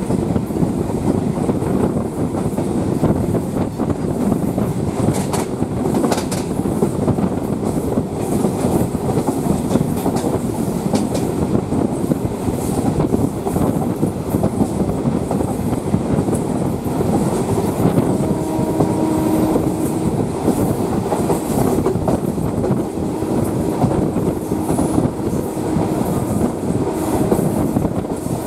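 Electric suburban local train running at speed, heard from its open doorway: a steady rumble of wheels on the rails with clickety-clack over the rail joints.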